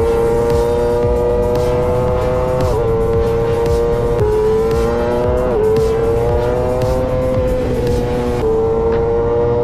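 Racing motorcycle engine running hard at high revs, its pitch climbing slowly and dropping sharply about four times as the rider shifts up through the gears.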